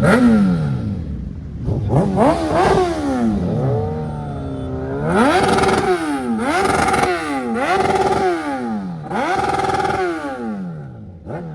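Suzuki Hayabusa inline-four engine revved repeatedly, about six throttle blips, several held briefly at a steady high pitch before falling back.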